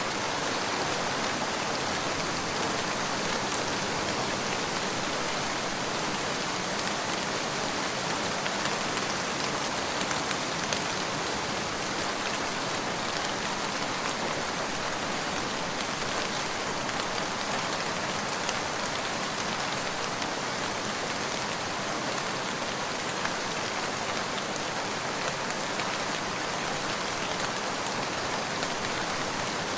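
Steady rain falling on a surface, a continuous even hiss with faint scattered drop ticks.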